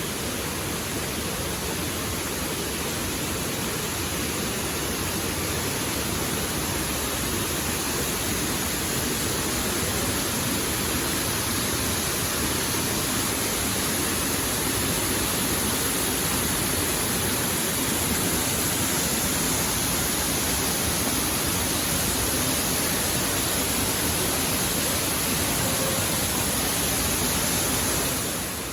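Waterfall: a steady, even rush of falling water, dipping slightly in level near the end.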